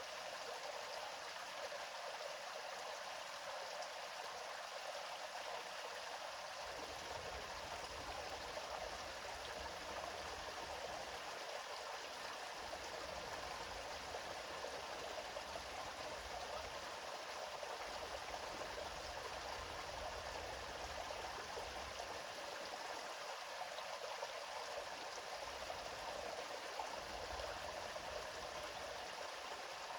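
River water flowing steadily over rocks, an even rushing and babbling with a faint low rumble that comes in about a quarter of the way through and drops away now and then.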